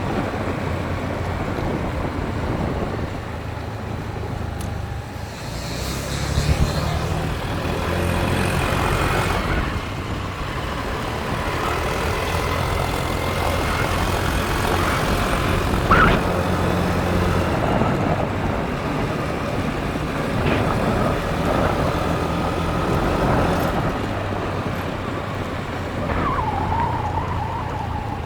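Motorbike engine running under way, its pitch shifting up and down in steps with throttle and gear changes, over wind and road noise; a brief sharp sound about halfway through.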